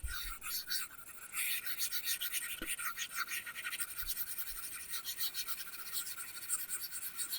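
An Apple Pencil tip scratching across an iPad's matte paper-texture screen film in quick, repeated drawing strokes: a dry, high scratching.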